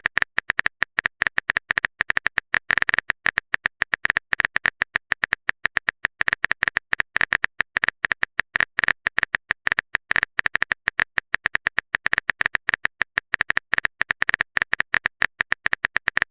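Rapid, irregular keyboard-typing clicks, several a second without a break: a phone-keyboard typing sound effect of messages being typed out.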